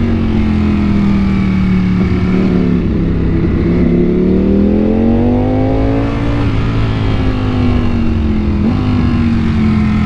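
Ducati Panigale V4's V4 engine heard from on board while riding. Its pitch dips, climbs steadily for about three seconds as the throttle opens, then eases back down, with wind noise on the microphone.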